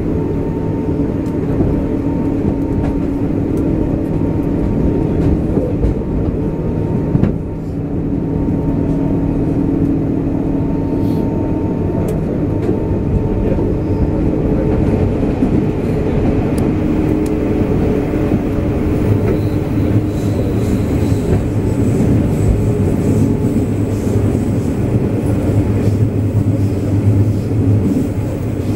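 JR 201 series electric train running at speed, heard from inside the car: a steady rumble of wheels on the rails with the hum of the traction motors, whose pitch shifts partway through. A single brief knock comes about seven seconds in.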